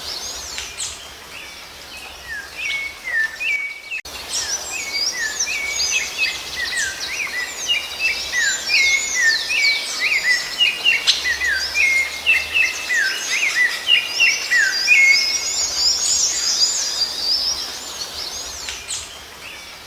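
Songbirds singing and chirping, many short whistles and chirps overlapping. There is a brief break about four seconds in, and the calling thins out near the end.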